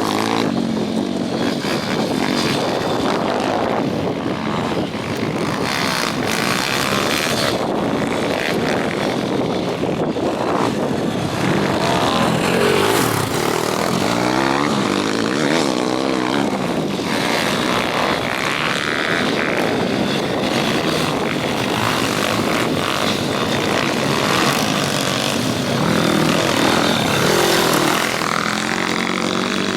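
Several pit bike engines racing around a track, revving up and down through the gears, their overlapping engine notes rising and falling.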